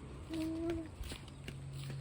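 A toddler's short, even-pitched vocal sound of about half a second, with a few faint taps around it.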